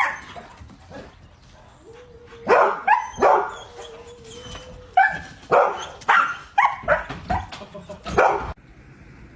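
A dog barking in short, sharp bursts, first a few barks about two and a half seconds in, then a longer run of barks from about five seconds; the sound cuts off suddenly near the end.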